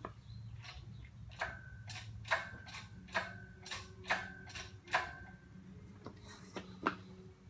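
Metal hand tools clinking against metal parts during engine removal: about eight sharp clinks, each with a short ring, spaced unevenly over a low steady hum.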